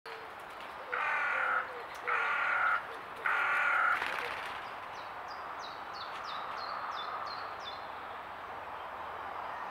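Three loud, harsh, caw-like bird calls about a second apart. About a second later comes a faint run of about eight quick, high notes, each dropping in pitch, from a small songbird.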